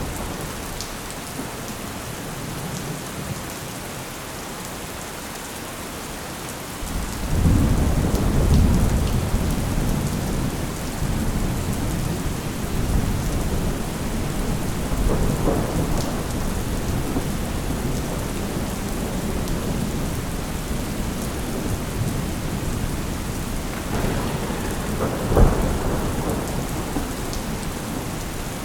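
Thunderstorm: steady rain with rolling thunder that breaks in about seven seconds in and rumbles on, and a sharper thunderclap near the end.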